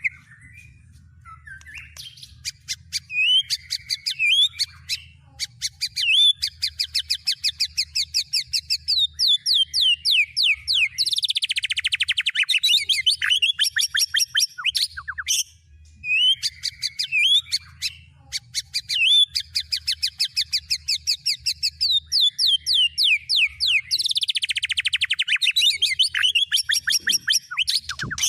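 Recorded songbird song: rapid runs of high chirps and fast trills. The same sequence plays twice, starting over about halfway through, over a faint low pulsing hum.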